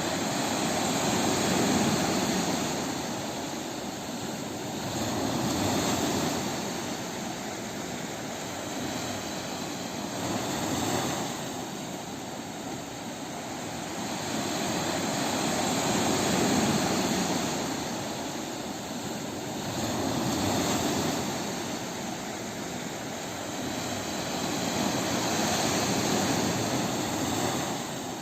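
Ocean waves breaking on a beach: a continuous rush of surf that swells and ebbs about every four to five seconds, six swells in all.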